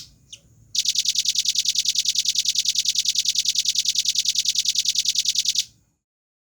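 Velvet-fronted nuthatch giving a short call, then a fast, even trill of high notes, about nine a second, lasting about five seconds and stopping abruptly.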